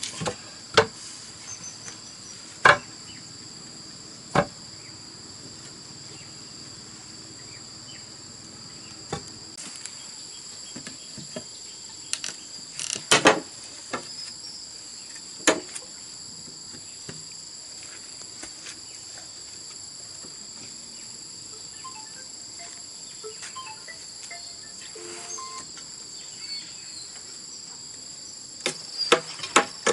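Steady high chirring of insects, broken by scattered sharp knocks of hammering or chopping on bamboo, with a quick run of knocks near the end.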